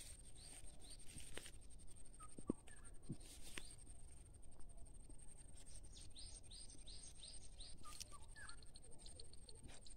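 Faint birdsong: a bird gives runs of short, high, downward-sliding chirps, loudest in a quick series around the middle. A few soft clicks and a steady high-pitched whine sound along with it.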